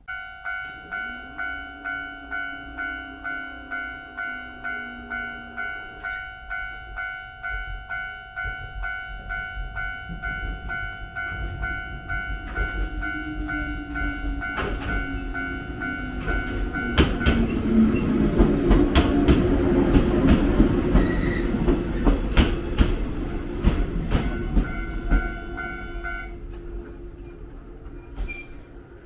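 Railway level-crossing alarm ringing in a steady repeating pattern while a Jōshin Electric Railway train comes through, its motors humming and its wheels clacking over rail joints. The train is loudest about two-thirds of the way in, and the alarm cuts off a few seconds before the end as the train moves away.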